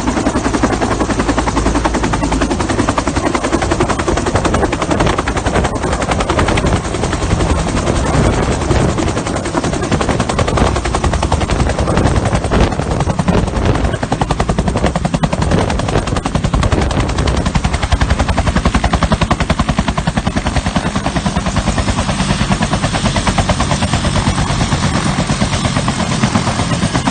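Bell 210 (UH-1) helicopter running close by, its two-bladed main rotor giving a loud, steady, rapid chop.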